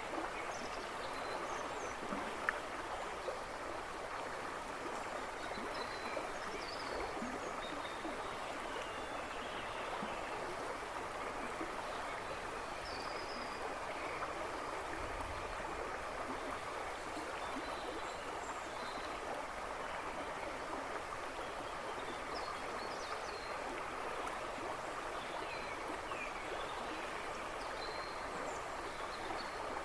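River rushing and splashing steadily over stones, with small birds chirping now and then in the woods behind it. One sharp click about two seconds in.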